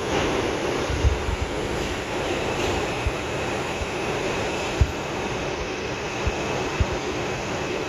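Interior of an R142 subway car running on the track, a steady rumble with a few short low thumps and a faint high whine coming in about two and a half seconds in.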